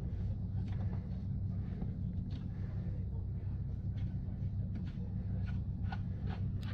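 Scattered clicks and light taps of hand tools working on an ATV wheel hub, over a steady low hum.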